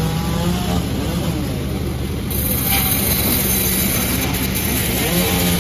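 Panda36 chainsaw running steadily at speed, its note growing harsher a little over two seconds in.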